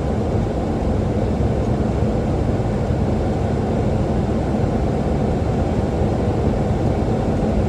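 Steady low rushing noise of airflow and engines inside a Boeing 737-800 flight deck on final approach, about 500 ft above the runway.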